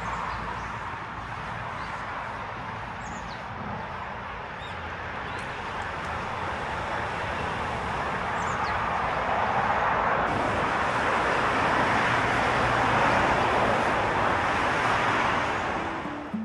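Outdoor road noise that swells over several seconds and then eases, as a vehicle passes, with a few faint bird chirps.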